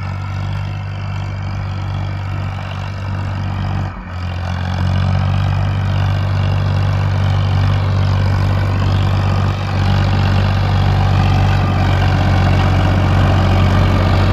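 Tractor engine running steadily under load. About four seconds in it dips briefly, then runs louder.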